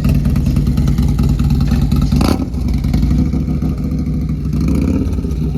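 Motorcycle engine running with a steady low rumble, with a short sharp rush of noise about two seconds in.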